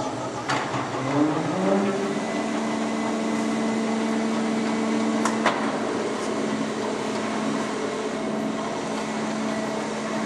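Oliver Model 600 drill grinder starting up: its motor hum rises in pitch over the first two seconds, then settles into a steady running hum. A couple of sharp clicks come during the start-up.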